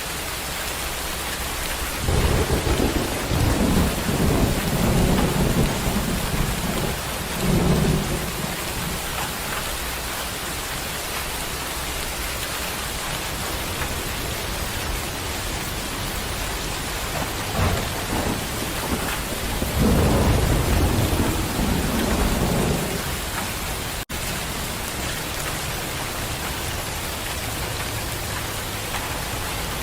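Steady heavy rain hissing, with two long rolls of thunder rumbling over it, one starting about two seconds in and lasting some six seconds, the other coming in past the middle. The sound cuts out for a split second about three quarters of the way through.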